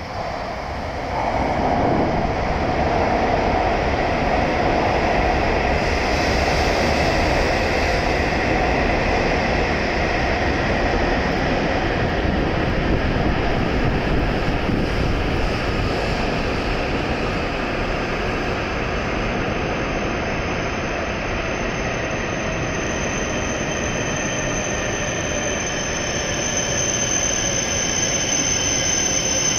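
W7 series shinkansen train running into the platform and slowing to a stop, a steady rumble of wheels on rail with a faint whine. A high, thin squeal sets in near the end as it comes to a halt.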